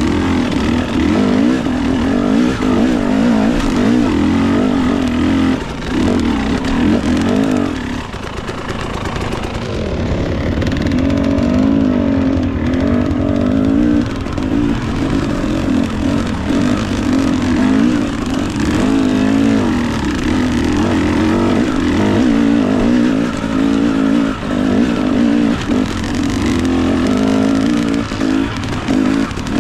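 Dirt bike engine running hard under constant throttle changes as it climbs and descends rocky trail, its pitch rising and falling. The throttle eases off briefly about eight seconds in.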